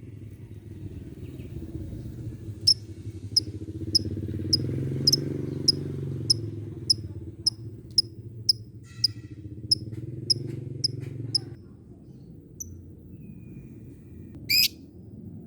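Lovebird giving its 'ngetik' call: an even series of sharp high ticks, a little under two a second, running for about eight seconds before stopping, then a single shrill squeak near the end. A steady low hum runs underneath.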